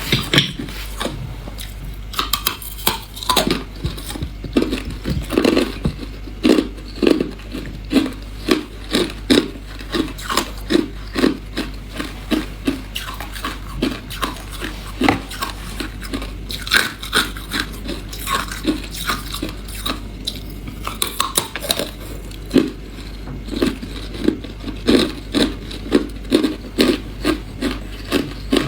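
A person chewing hard clear ice, crunching it between the teeth in a steady run of short crunches, about two a second.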